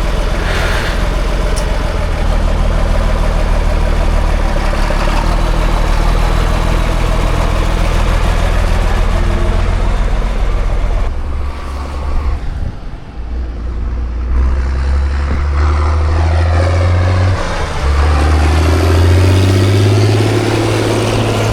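John Deere tractor engine running steadily under load, then easing off about halfway and picking up again, its pitch climbing as it revs up.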